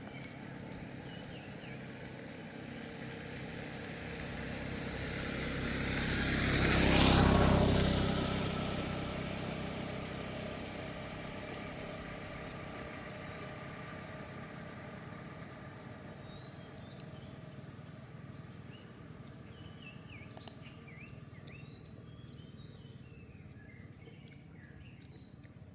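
A motor vehicle passes by: its sound builds for several seconds, peaks about seven seconds in, then slowly fades away. In the second half there are short high chirps and a few sharp clicks.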